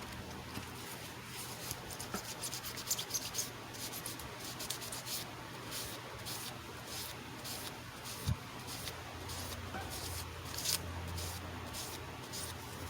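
Irregular short scraping or rubbing strokes, as of a small tool or cloth worked against a hard surface, with a sharp click about eight seconds in. A steady low hum runs underneath.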